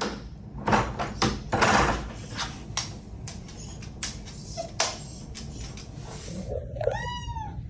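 A run of sharp clicks and knocks for the first few seconds. Near the end, a cat meows once, its pitch rising then falling.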